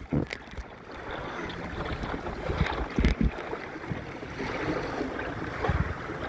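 Water rushing and splashing along a small Snark sailboat's hull in wind and swell, with a few dull thumps.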